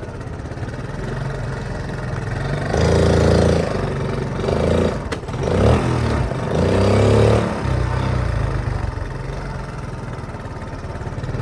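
Honda C70's small single-cylinder four-stroke engine running under way. Its note rises and falls in several surges through the middle of the stretch as the throttle opens and closes, with one sharp click about five seconds in.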